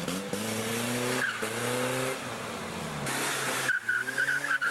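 1981 Nissan 200SX with a welded differential being driven hard: the engine revs up, dips briefly about a second and a half in, and revs up again. Near the end the rear tyres start a steady high squeal as the car slides in a drift.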